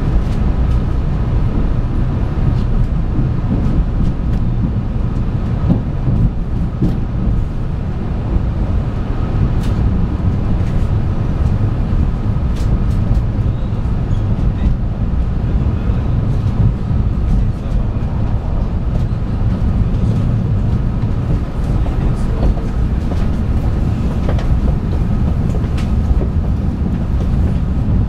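Steady low rumble of a 700 series Shinkansen train running on the track, with scattered light clicks.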